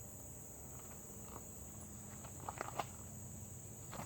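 A steady, high-pitched insect chorus, with a few faint short clicks and taps over it in the second half.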